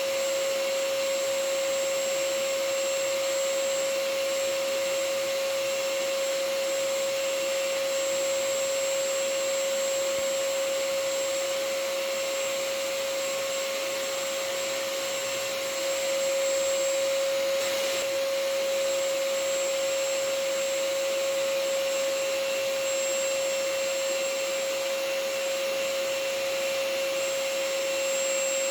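Vacuum cleaner running steadily: a constant motor whine over an even rush of air.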